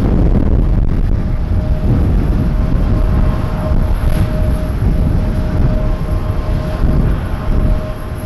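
Jet airliner engines rumbling loudly with a steady whine as the plane flies past low on its landing approach.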